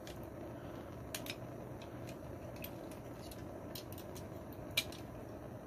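Small hand torch burning with a steady low rush, while a few light clicks sound here and there.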